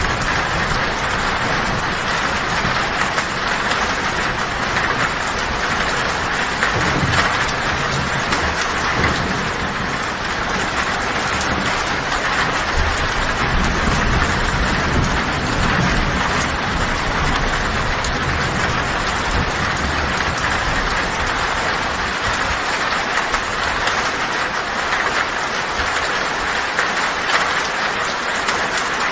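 Heavy rain falling steadily on a tin roof, with low thunder rumbling a few seconds in and again through the middle.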